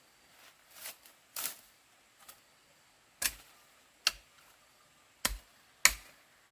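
A string of sharp knocks at irregular intervals, the loudest ones in the second half.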